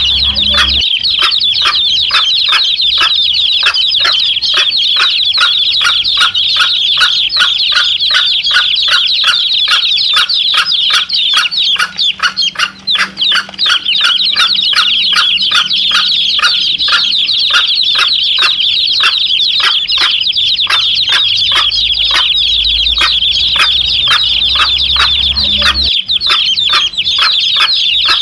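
A brood of domestic chicks peeping rapidly and without a break, with their mother hen clucking low among them.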